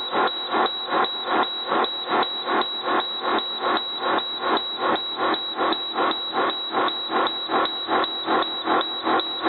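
Starter cranking the cold diesel engine of an Amtran RE school bus, with a steady starter whine and an even beat of about two and a half compression pulses a second. The engine does not catch: a hard cold start.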